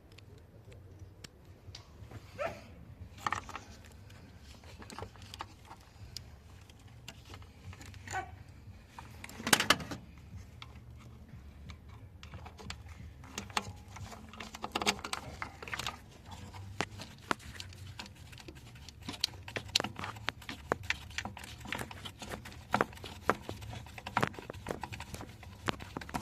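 Scattered small clicks, knocks and clinks of hand work with tools and parts, with a louder clatter about ten seconds in and the clicks coming more often in the second half, over a low steady hum.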